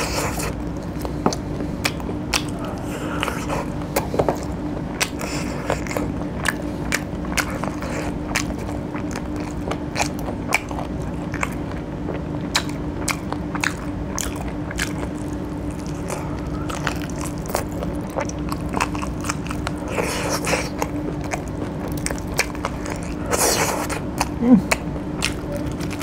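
Close-miked mukbang eating: biting and chewing chicken curry pieces eaten by hand, with many sharp wet clicks and crunches. A steady low hum runs underneath.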